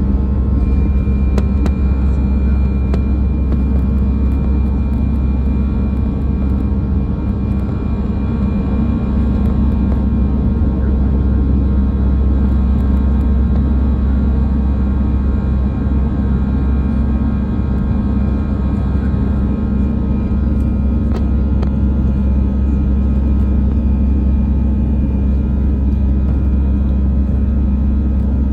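Steady, loud low rumble of an Air France Airbus A319's jet engines and airflow heard from inside the cabin in flight, with a few steady hums running through it.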